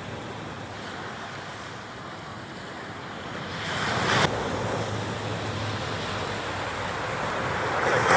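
Ocean surf washing onto the beach, a steady rush that swells about three and a half seconds in, with wind buffeting the microphone.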